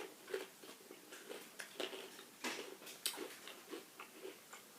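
Close-up chewing of crunchy Pringles crisps: irregular crackling crunches and small clicks from the mouth.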